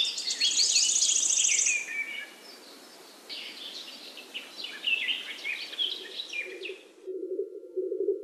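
Birds chirping and singing over a steady background hiss, with a rapid high trill in the first two seconds. About seven seconds in, the birdsong cuts off suddenly and a low, steady tone begins.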